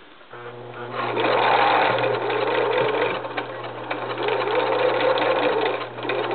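Viking 150 sewing machine sewing a straight stitch: the motor hum starts about a third of a second in, and the machine runs at a steady speed with needle-mechanism clatter, louder from about a second in.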